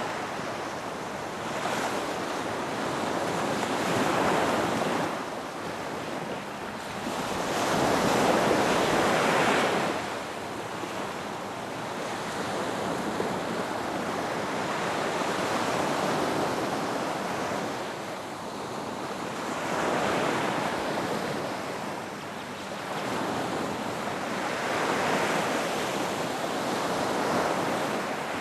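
Ocean waves breaking and washing up a beach, a continuous rushing surf that swells and falls back every few seconds.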